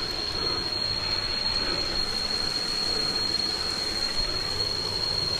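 Cicadas droning on one steady high-pitched tone, over the even rush of waterfall water.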